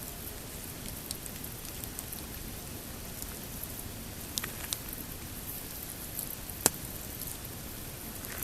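Pine campfire crackling over a steady hiss, with scattered small pops and one sharp, loud snap about two-thirds of the way through.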